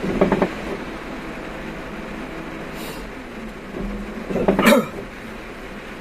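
Steady road and engine noise inside a moving car's cabin, with two short louder sounds breaking through: one just at the start and a louder one about four and a half seconds in.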